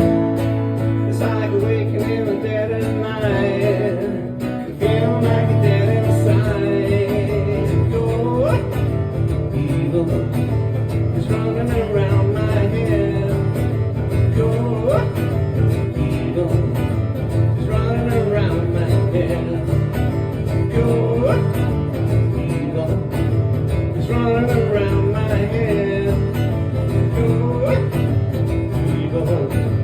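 Live acoustic guitar music in a country style, played steadily with no break.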